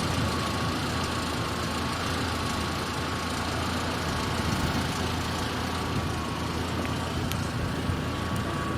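Motor vehicle running: a steady engine and road rumble, with a faint thin whine held at one pitch throughout.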